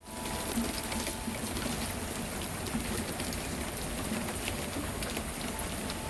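Steady rain falling: an even hiss with scattered sharper ticks of individual drops hitting surfaces.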